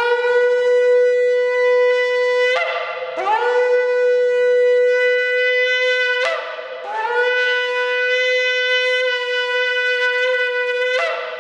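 Oryx-antelope-horn shofar blown in three long, steady blasts on one bright note, each blast starting with a short upward slide into pitch and separated by brief breaths.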